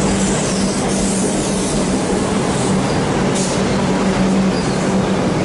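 Melbourne suburban electric train running past the platform: a steady rumble of wheels on rail with a constant low hum.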